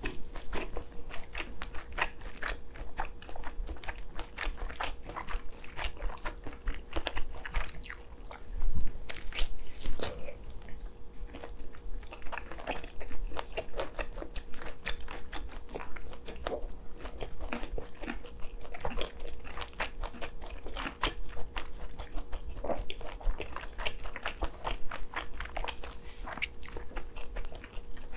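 Close-miked chewing and biting of spicy noodles and sausage, a dense run of small mouth clicks, loudest about nine seconds in.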